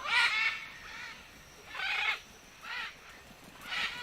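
Macaws giving harsh, raucous squawks, one call about every second.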